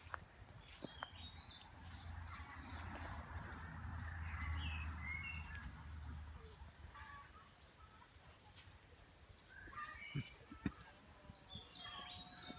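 Small birds chirping now and then. A low rumble swells and fades over a few seconds in the first half.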